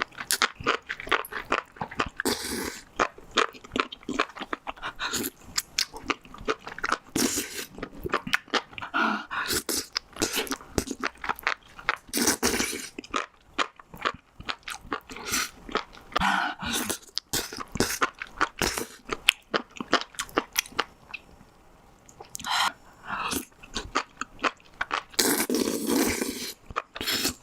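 Close-miked chewing of spicy enoki mushrooms: rapid wet clicks and crunchy bites, with a brief lull about three quarters of the way through.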